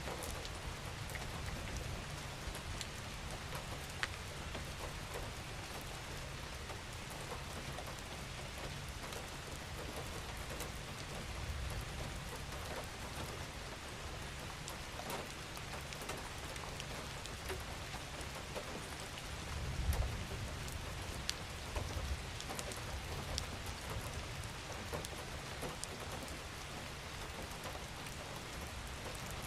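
Steady gentle rain falling on a surface, with individual drops ticking through the hiss. A low rumble swells beneath it about two-thirds of the way in.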